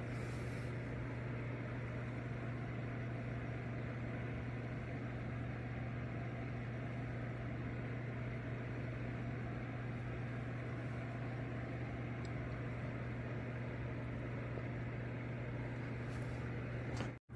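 Steady low hum over an even hiss, unchanging throughout, with a brief dropout near the end.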